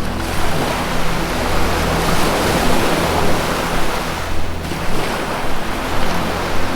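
Ocean surf washing in and out in long swells, thinning briefly about four and a half seconds in before the next wave builds, over a soft, steady low drone of music.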